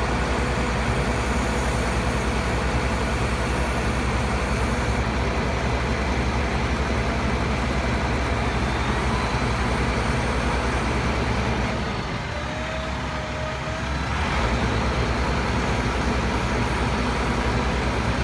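Bucket truck engine running with a steady drone that eases off for about two seconds around twelve seconds in, then picks up again.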